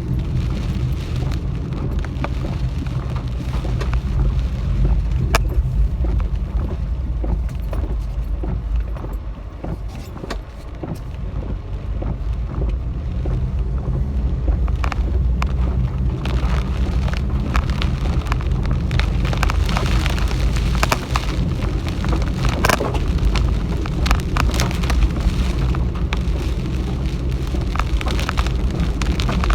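Car driving through heavy typhoon rain, heard from inside the cabin: a steady low rumble of road and engine, with rain pelting the car body and windshield as a constant hiss and scattered ticks.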